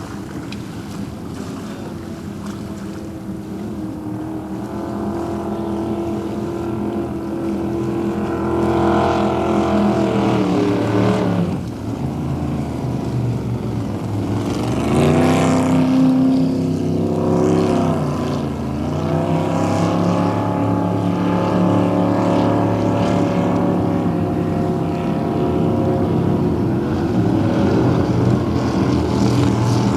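Racing motorboat engines running, growing louder over the first half, with the engine pitch dropping and climbing again a couple of times.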